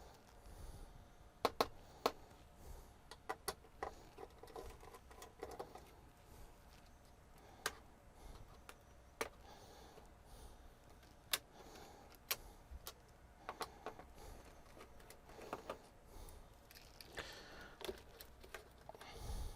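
Irregular sharp clicks and light knocks, with some soft rustling, of small hard parts and tools being handled during bench work on a TV.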